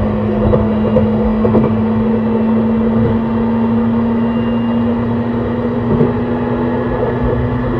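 E131 series electric train heard from inside the car while running: steady wheel and rail rumble under a traction-motor hum whose pitch slowly rises a little as the train gathers speed.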